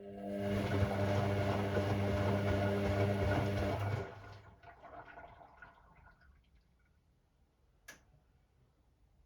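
Hoover Sportswear 1300 washing machine's drum motor turning the drum for about four seconds, with a steady hum and water sloshing inside. It then stops and the drum coasts to rest with fading swishes. A single relay click comes near the end, which is part of the gentle stop-start drum action of the Delicate 15 wash.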